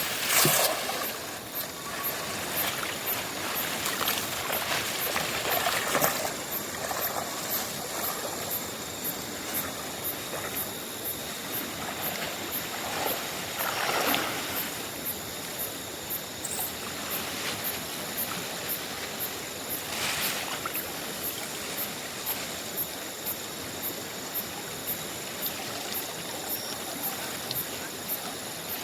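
River water flowing steadily over stones. A few brief, sharper sounds stand out over it, the clearest about 14 and 20 seconds in.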